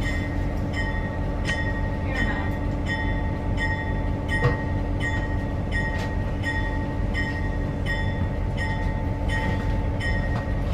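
Railroad caboose rolling along the track, heard on board: a steady rumble with the wheels clicking over rail joints about every three quarters of a second.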